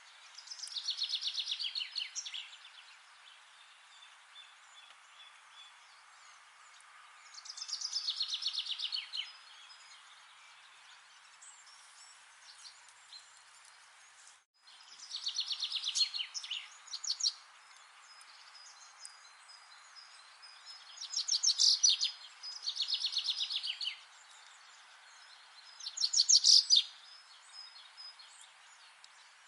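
A songbird singing a series of fast trills, about six phrases of rapidly repeated high notes, each phrase a couple of seconds long with pauses between, over a faint steady hiss. The whole sound cuts out for an instant about halfway through.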